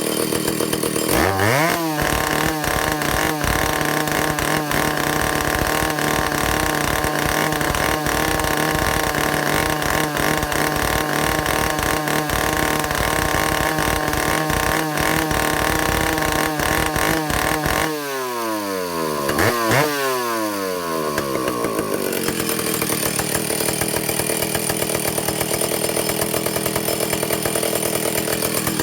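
Vintage Stihl two-stroke chainsaw engine idling, then revved up sharply about a second in and held steady at high revs for about sixteen seconds. The throttle is then released and the revs fall away, with one quick blip, before the engine settles back to a steady idle. This is a test run after the carburetor has been adjusted.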